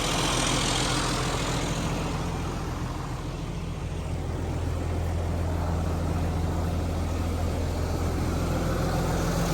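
A John Deere articulated tractor's engine idling steadily.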